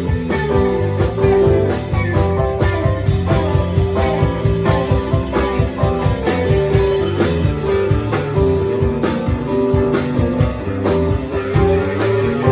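A band playing a blues-rock tune led by guitar, over a steady drum beat.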